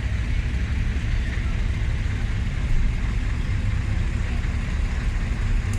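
A truck engine idling: a steady low rumble.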